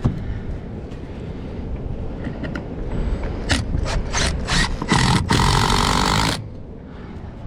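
Old barn door being worked shut: a quick run of knocks and rattles, then a scrape lasting about a second that stops suddenly, over wind rumbling on the microphone.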